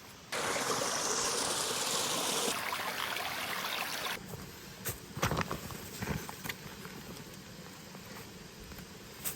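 Mountain stream water rushing steadily. It cuts off suddenly about four seconds in, leaving quieter surroundings with a few scattered knocks and clicks.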